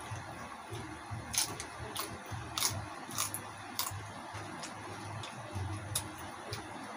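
Close-up eating of crispy deep-fried pig's head: sharp crunching and mouth clicks, about one every half second through the first half, then fainter.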